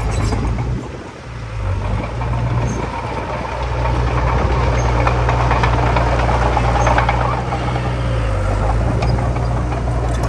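Heavy diesel construction machine's engine running with a steady low drone. It dips briefly about a second in, then runs louder with a clattering rattle from about four to eight seconds in.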